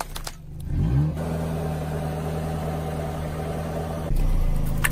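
Car engine revving up briefly about a second in, then running steadily at a low, even hum; near the end the sound switches abruptly to a louder low rumble.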